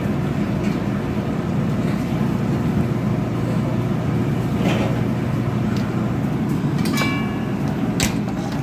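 Steady low hum of the refrigerator's condensing unit running, with a few sharp clicks and a brief metallic ring near the end as the service fittings are handled.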